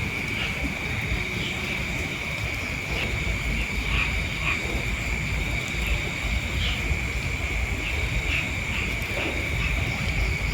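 Outdoor chorus of calling frogs and insects: a steady high-pitched drone with short chirps scattered through it, over a low rumble.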